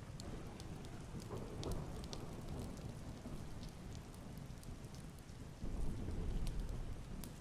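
Steady rain with scattered sharp drop ticks, and a low rumble of thunder that comes in suddenly about three-quarters of the way through.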